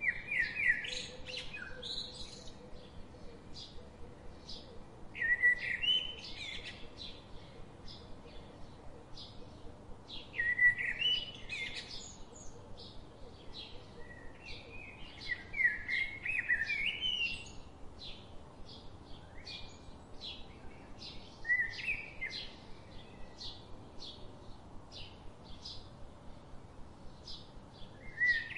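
Birds singing: a short burst of quick chirping notes about every five seconds, with faint short chirps repeating steadily in between.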